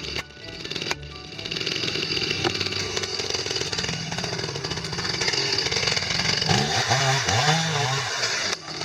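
Chainsaw running, its pitch swooping down and back up a few times near the end.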